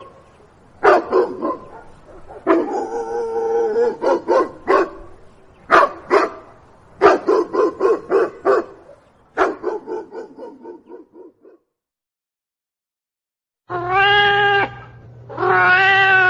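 A dog barking in quick runs of barks, with a whining tone held under the barks for a couple of seconds early on. After a short silence, a cat meows twice near the end.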